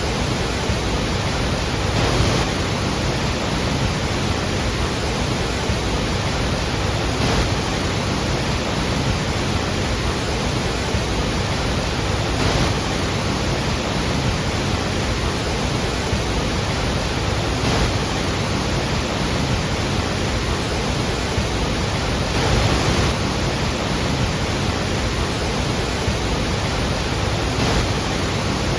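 Iguazu Falls: the steady, dense rush of a large waterfall, an even wash of noise with faint swells about every five seconds.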